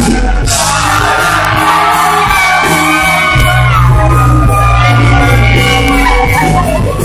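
Live country-rock music: voices singing over an amplified band with a heavy bass and drum beat, mixed with shouts and whoops.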